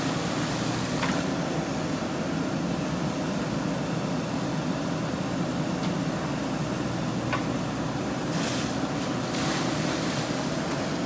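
JCB 3DX backhoe loader's diesel engine running steadily. Two brief rushes of noise come about eight and a half and nine and a half seconds in.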